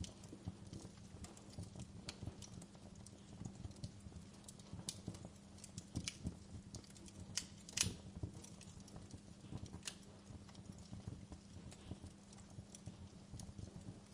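Wood fire crackling: irregular small pops and snaps over a steady low rumble, with one louder pop about eight seconds in.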